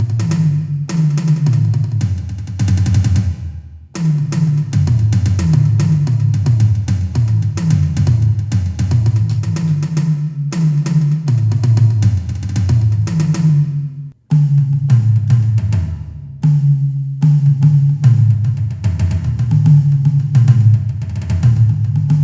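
Donner DED-200 electronic drum kit playing its tom sounds in quick rhythmic fills that step down in pitch from tom to tom, with two brief pauses.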